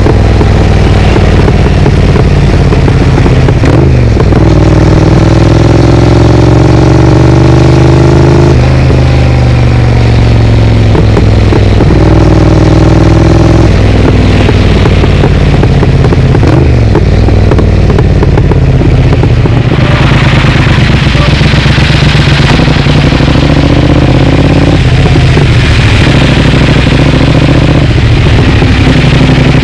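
Triumph Speed Twin's parallel-twin engine through a Vance & Hines aftermarket exhaust, accelerating through the gears. The pitch climbs, drops at each upshift and climbs again, about four times in the first fifteen seconds, then the engine runs at a steadier speed.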